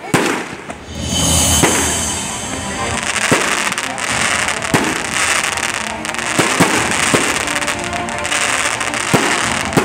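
Fireworks display: aerial shells bursting in a string of sharp bangs, about one every second or so, over a dense continuous crackle of crackling stars that starts about a second in.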